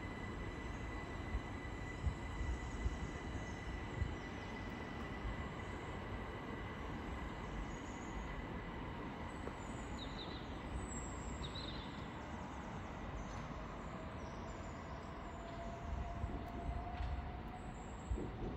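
Southeastern Class 375 Electrostar electric multiple unit departing, a steady rail rumble with a thin high electric whine that fades out about twelve seconds in. Near the end a lower whine rises slowly in pitch.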